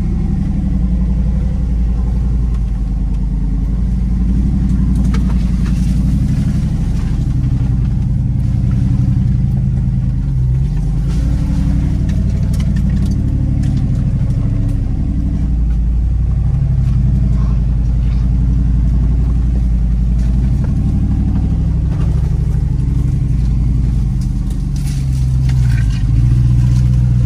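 Jeep Wrangler Rubicon 392's 6.4-litre HEMI V8, fitted with an aftermarket exhaust, running at low trail speed, heard from inside the cabin. There are scattered light knocks and rattles, and the engine gets a little louder near the end.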